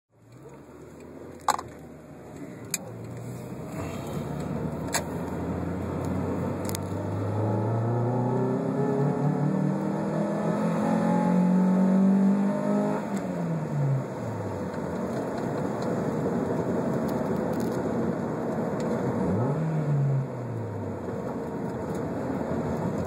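Honda Prelude H22 2.2-litre VTEC four-cylinder revving hard under full throttle in second gear, climbing for several seconds, then falling off sharply about halfway through, with a shorter rise and fall later. The engine is warm, and it stumbles and cuts out between 4500 rpm and redline: a high-rpm misfire whose cause the owner has not found.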